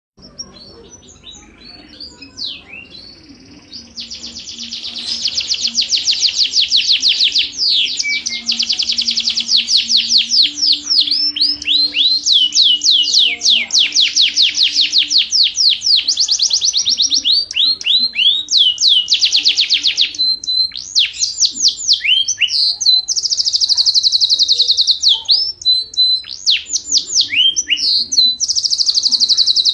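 Canary singing long, rapid trills and rolls of repeated high notes, with short pauses between phrases. It starts softly and becomes loud about four seconds in.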